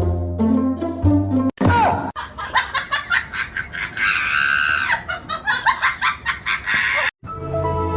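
Background music, broken after about a second and a half by some five seconds of rapid, high-pitched cries with a long shrill call in the middle, then the music resumes after a sudden cut.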